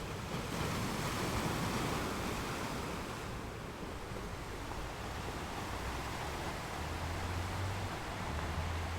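Sea waves washing onto the shore in a steady surf wash, with one swell building in the first couple of seconds and easing off, over a low rumble.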